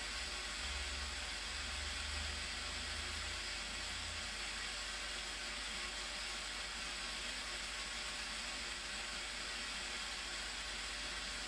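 Steady, even hissing noise with a low hum underneath that is stronger for the first few seconds.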